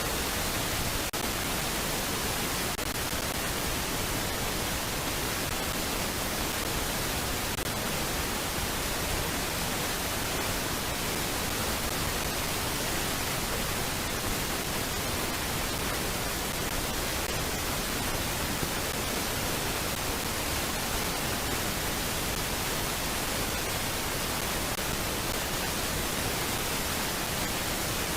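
Steady, even hiss like static, unchanging throughout, with no bird calls or other distinct sounds.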